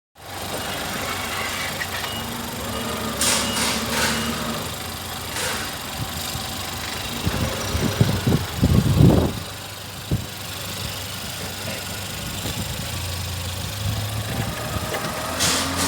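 LDV D90's 2.0-litre petrol four-cylinder engine idling steadily, with a short louder, uneven stretch about halfway through and a deeper, stronger hum near the end.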